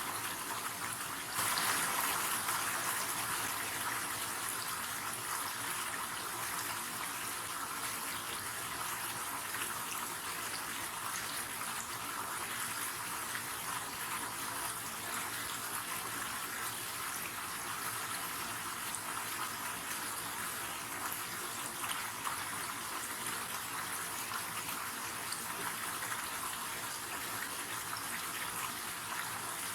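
River water running steadily over rocks, a continuous rushing that steps up a little about a second and a half in.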